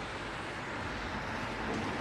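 Steady hiss of rain, with a car's tyres on the wet road growing slowly louder as it approaches.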